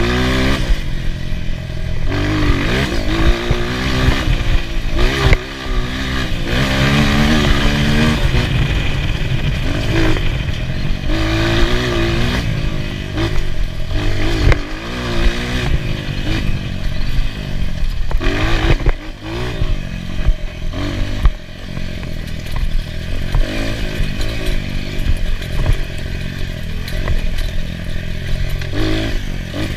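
Enduro motorcycle engine revving up and falling back again and again as the bike is ridden, with scattered knocks and rattles.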